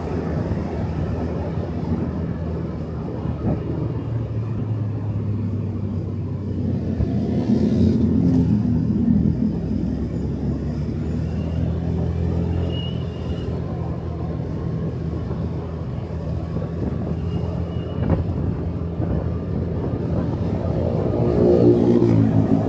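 Motorcycle engine running on the move, with road and wind noise. The engine note rises with louder revving about eight seconds in, and again shortly before the end.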